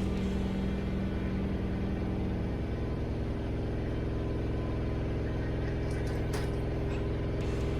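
Diesel semi-truck engine running steadily, its note stepping down to a lower pitch about two and a half seconds in.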